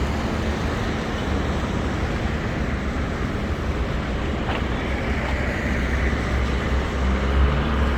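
Steady city street traffic noise on a rain-wet road: a constant hiss of tyres and rain over a low engine rumble.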